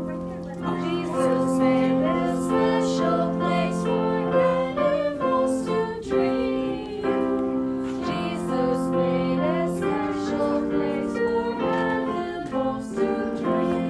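A woman singing a children's song with piano or keyboard accompaniment, the sung melody moving over sustained chords.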